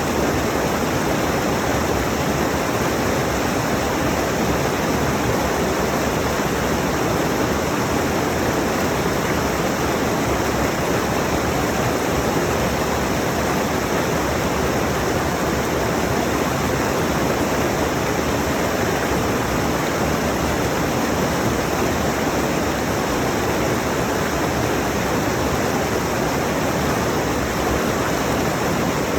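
Mountain stream rushing over rocks: a steady, even roar of water that doesn't change.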